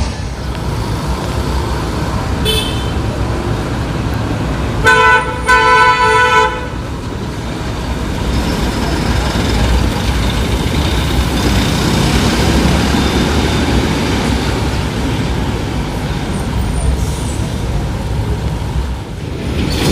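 A heavy truck's engine runs with steady road-traffic noise. About five seconds in, a vehicle horn blares twice in quick succession, the second blast longer.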